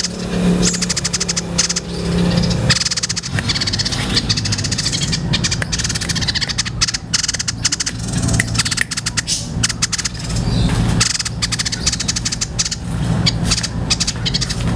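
White-breasted babbler (tepus dada putih) chattering in fast, dense trills of rapid clicking notes, the continuous call used as masteran training audio for fighter songbirds.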